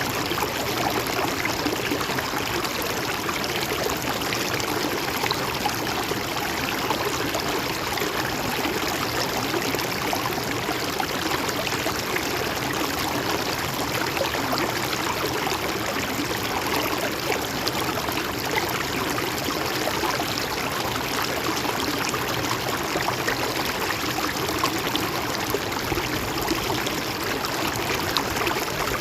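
Shallow river or stream flowing steadily over rocks, a continuous babbling and gurgling of water.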